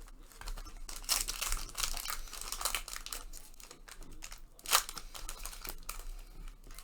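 Foil trading-card packs being crinkled and torn open by hand, irregular rustling and crackling with one sharp crackle about two thirds of the way through.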